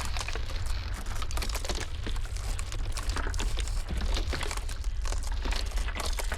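Ice cracking: dense, irregular crackles and snaps over a steady low rumble of blizzard wind.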